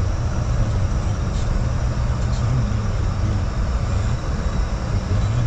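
Steady rumble of a car driving, its engine and road noise heavy in the low end.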